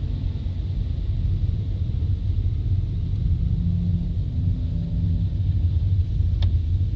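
Steady low rumble of a car's road and engine noise, heard from inside the cabin while driving. A brief sharp click about six and a half seconds in.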